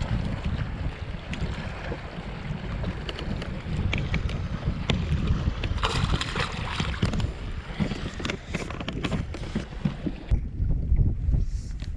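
Wind buffeting the microphone on a kayak, a steady low rumble with scattered small clicks and knocks, and a brief brighter hiss about six seconds in.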